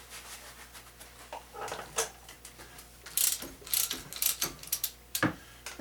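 Socket ratchet wrench clicking in a quick run of sharp clicks over the second half, faint handling noises before it, as connecting-rod nuts are worked loose.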